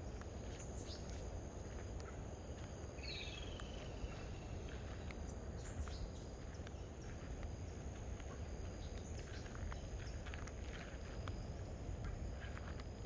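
Tropical outdoor ambience: insects buzz steadily at a high pitch, and a bird gives a short call that drops in pitch about three seconds in, with a few scattered chirps. A low rumble runs underneath.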